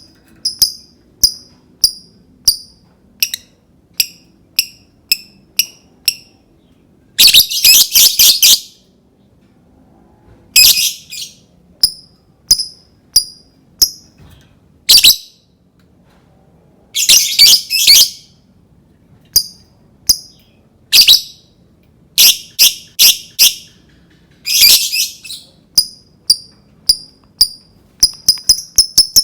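Lovebird calling: sharp, high single chirps about two a second, broken three times by short bursts of rapid chattering.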